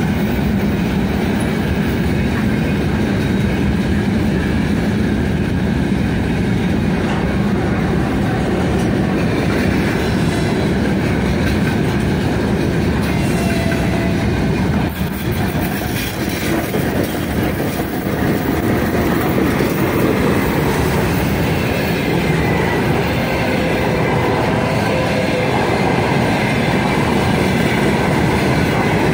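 Freight train of open gondola wagons rolling past close by: a steady rumble and clatter of steel wheels on the rails, easing slightly about halfway through.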